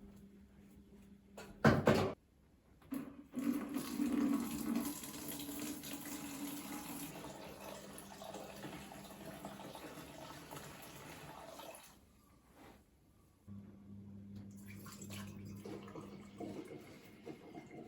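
Water running from a tap into a sink, turned on about three seconds in and off again about twelve seconds in, then running again for a few seconds. A loud knock comes just before the water first starts.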